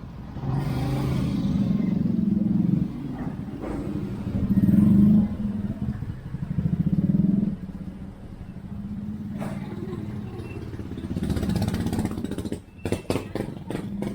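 Motorcycle engine running close by, swelling louder and softer several times as it revs. A few sharp clicks near the end.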